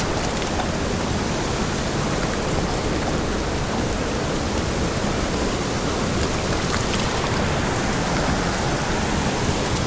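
Steady rushing of a small mountain creek's water over rocks, an even unbroken wash of noise.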